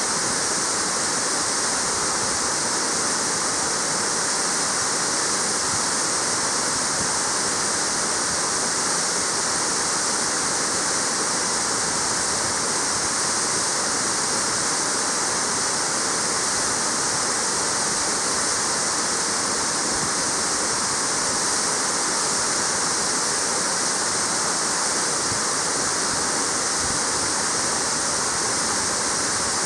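Waterfall: water falling and splashing onto rocks, a steady, unbroken rush.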